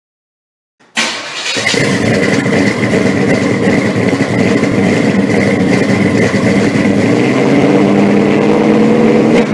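A car engine fires up with a sudden loud burst about a second in, then runs loudly and steadily with a high, even whine above the engine note.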